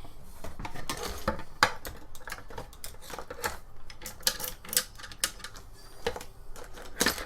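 Hand grease gun being worked to grease a string-trimmer attachment's gearbox: a dozen or so sharp, irregular metallic clicks and clacks.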